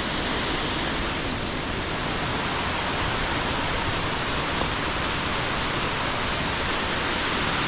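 Steady rush of a waterfall: falling water making an even, unbroken hiss and roar.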